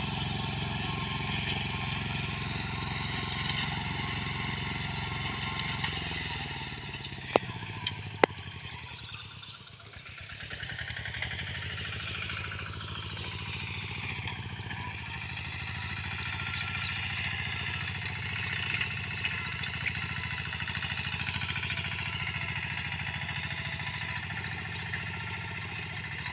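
Small engine of a wheat reaper-binder running steadily. About a third of the way in its note drops and fades, then comes back up and runs on. Two sharp clicks sound just before the dip.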